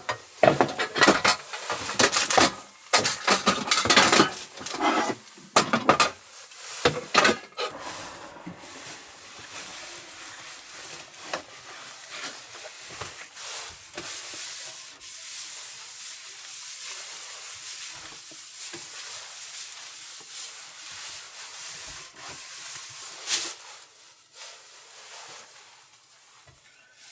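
Rubbing and scraping of objects being handled: a run of brisk, loud strokes for the first seven seconds or so, then quieter steady rustling with one louder stroke near the end.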